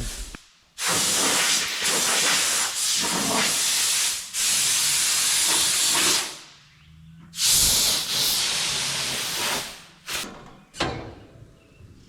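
High-pressure jet hissing loudly in long blasts: one of about five seconds, a brief pause, another of about two and a half seconds, then two short bursts near the end. It fits the blowing off and washing down of a planter.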